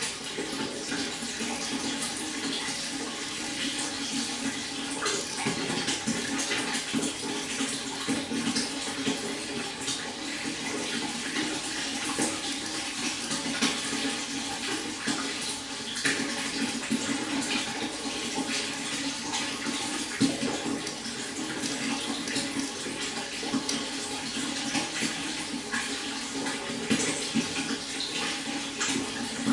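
Water running steadily over a stream bed, a babbling brook with a constant patter of small splashes.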